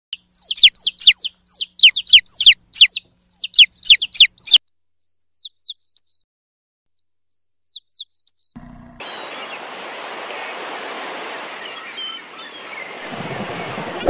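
Small birds chirping: a rapid run of sharp chirps falling in pitch, about four a second, then softer whistled notes that glide downward. From about nine seconds in, a steady hiss with a few faint bird notes in it.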